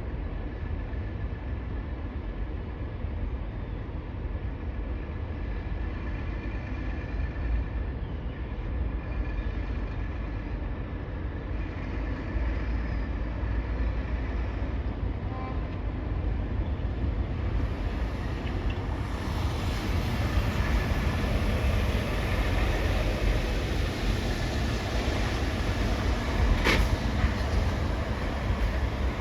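Heavy vehicles running with a steady low rumble that grows louder and fuller in the second half, with one sharp click near the end.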